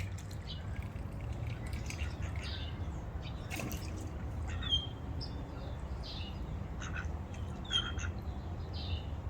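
Small garden birds chirping: short, high calls repeated every second or so, over a steady low hum.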